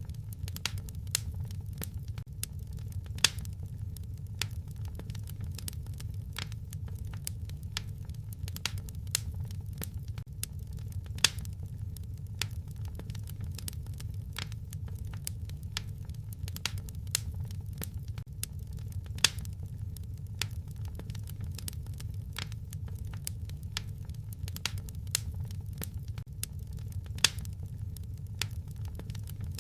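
Wood fire crackling: frequent small snaps and pops over a low, steady rumble, with a louder pop standing out about every eight seconds.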